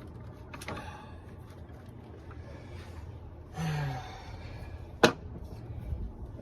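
Hands-on work on a car's radiator fan assembly: a soft click near the start, a short grunt a little past halfway, then one sharp, loud click about five seconds in, over a low steady hum.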